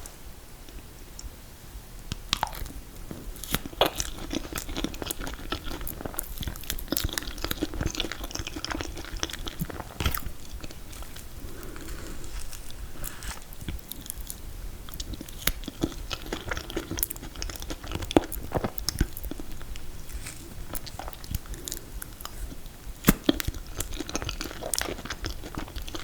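Close-up chewing and biting of mint chocolate chip ice cream cake with confetti cake layers, with many small, irregular sharp clicks between mouthfuls.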